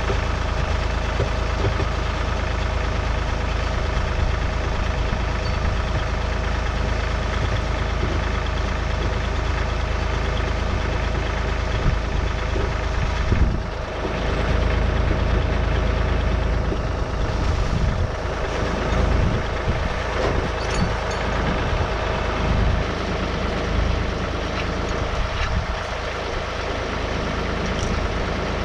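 John Deere 3046R compact tractor's three-cylinder diesel engine running steadily, with a brief drop in sound about halfway through.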